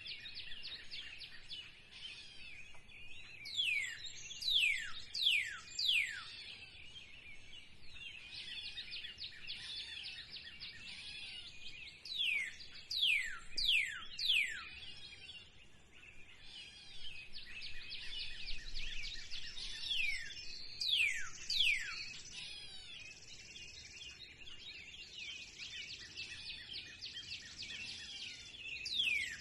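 Birds singing in spring: one bird repeats a phrase of three or four clear notes, each sliding steeply down in pitch, about every eight seconds, while other birds keep up busy fast chirping and trilling in between.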